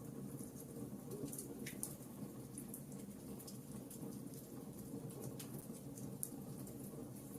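Burning logs in a fireplace crackling: scattered small sharp snaps and ticks, a few a second, over a low steady rumble of the fire.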